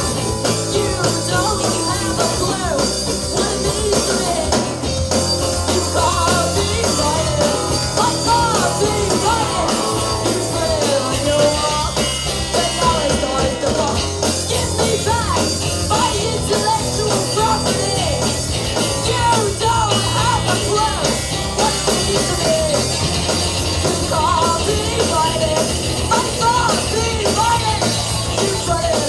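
A live rock band playing: drums, bass and guitar, with a singer's voice over them.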